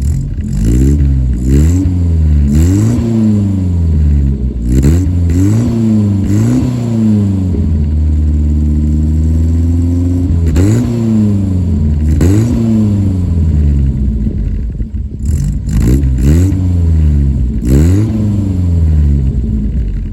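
Datsun 210 (B310) running through a new 2-inch exhaust with a Magnaflow muffler and no catalytic converter, revved in a series of quick blips. The pitch rises sharply and falls back with each blip. Twice it is held steady at a raised speed for a few seconds.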